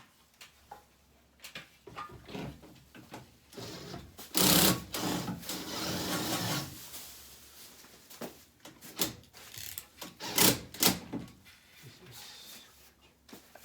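Cordless screwdriver running briefly, driving a screw into an air-conditioner panel, amid clicks and knocks of parts and tools being handled.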